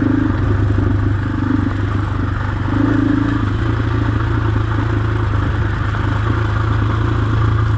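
Dirt bike engine idling steadily, its low hum holding one pitch without revving.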